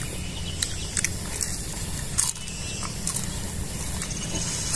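Crunchy biting and chewing of crispy fried martabak: a scattering of short crackles over a steady low rumble.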